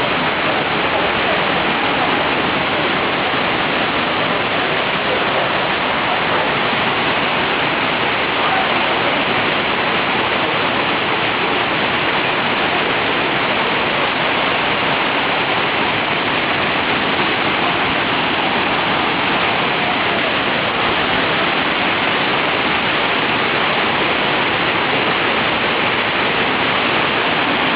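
Waterfall rushing: a steady, unbroken wash of falling-water noise.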